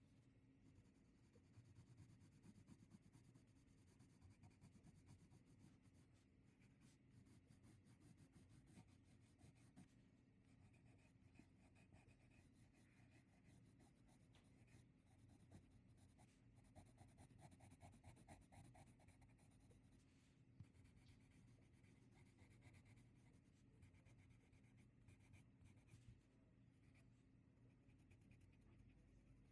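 Faint scratching of a pen drawing on paper, in continuous short strokes.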